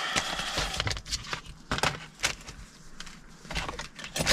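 Paper pages and cards being handled: a rustle at first, then scattered light taps and clicks.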